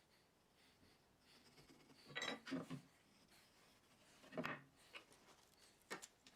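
A few short scraping strokes: two together about two seconds in, one at about four and a half seconds, and a brief one near the end, against quiet room tone.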